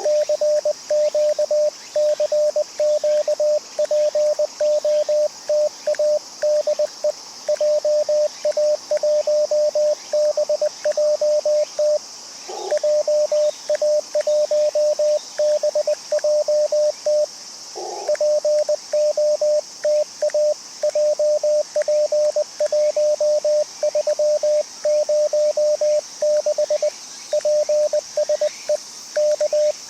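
CW transceiver's sidetone: a single steady tone keyed on and off in Morse code, typical of the operator sending a CQ call. The receiver's band hiss breaks in briefly twice, about twelve and eighteen seconds in, between transmissions.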